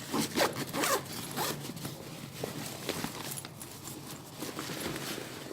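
Zip on a duffel bag being pulled in several quick strokes in the first second and a half, then softer intermittent zip and handling noises.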